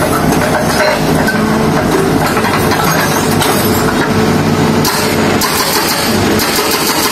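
Engine of heavy road-works equipment running steadily.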